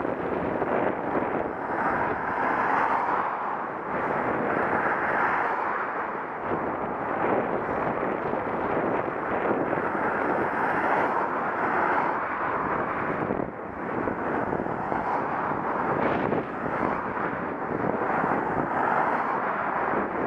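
Steady wind rush buffeting the microphone of a Contour action camera carried on a moving bicycle, swelling and easing every few seconds.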